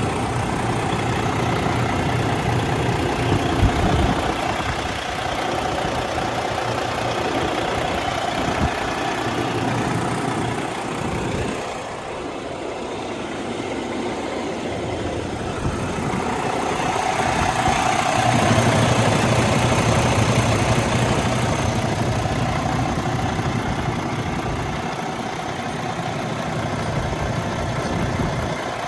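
Heavy diesel truck engine idling steadily, its level swelling and dipping over several seconds.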